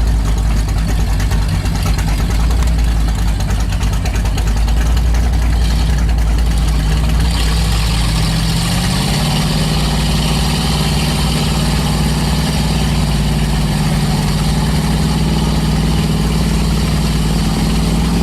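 Mud-bogging truck engine running at a low rumble, then revving up about eight seconds in and holding at high revs, with a loud hiss joining it just before; the revs climb again at the very end.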